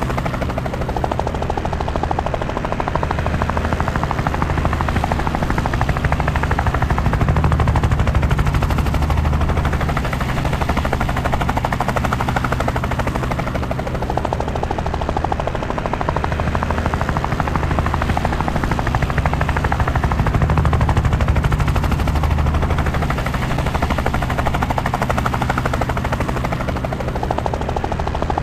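Helicopter in flight, its rotor and turbine running steadily with a fast, even beat of the blades.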